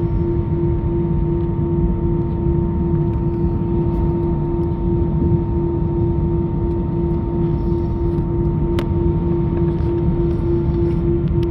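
Airbus A319 jet engines running at low power while taxiing: a steady low rumble with a strong, unchanging droning tone over it and a fainter higher tone.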